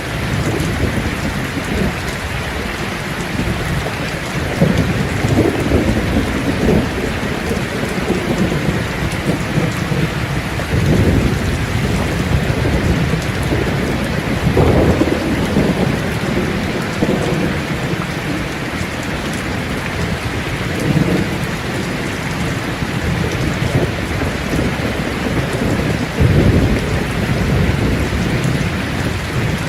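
Steady heavy rain, with low rumbles of thunder swelling up several times and fading again.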